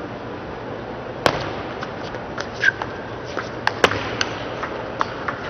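Table tennis rally: a plastic ball clicking sharply off rackets and the table, the hits coming faster after about three seconds, over a steady crowd murmur.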